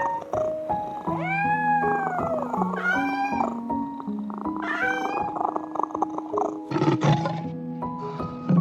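Cat meowing: three drawn-out calls that rise and fall in pitch, over background music. A short harsh, noisy sound comes near the end.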